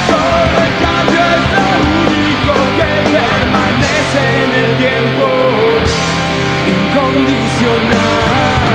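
Punk rock band playing live, with electric guitar, bass and drums, loud and without a break.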